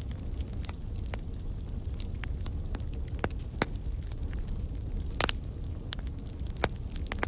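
Wood fire burning in a fireplace: a steady low rumble of flames with frequent irregular crackles and pops, a few louder pops among them.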